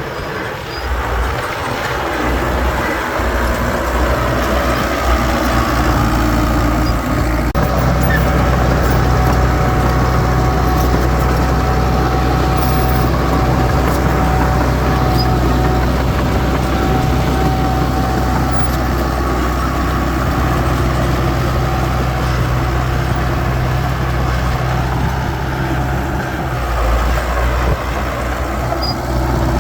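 Heavy earthmoving machinery's diesel engine running steadily, with a higher whine over its low hum; it swells over the first couple of seconds and then holds.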